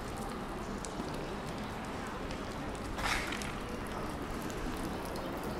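Light rain in a city street: a steady wash of noise with scattered drips. About three seconds in there is a brief louder hiss.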